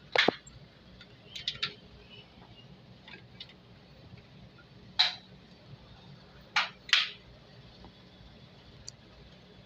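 Sharp clicks and clinks of hard objects at irregular intervals over a faint low hum. The loudest comes right at the start, a quick triple follows about a second and a half in, and three more strong ones fall between five and seven seconds in.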